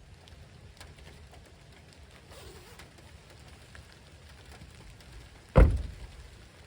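Steady rain falling, with scattered drops ticking. One loud, sudden thump about five and a half seconds in.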